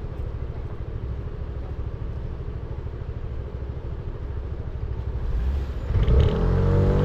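300cc motorcycle engine running at a low, steady putter, then revving up about six seconds in as it pulls away, its pitch rising.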